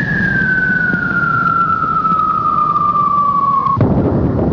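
A loud engine running, with a high whine over it that falls steadily in pitch and cuts off sharply near the end, while the engine noise carries on.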